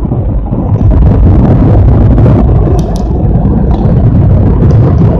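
Automatic car wash dryer blowers running, a loud steady noise heard from inside the car's cabin, with a few faint clicks.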